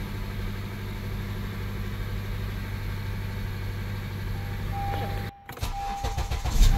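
Honda Accord engine idling steadily. About five seconds in it cuts out suddenly. A repeating dashboard warning chime sounds, then there are clicks and a loud low surge at the very end as the engine is cranked again.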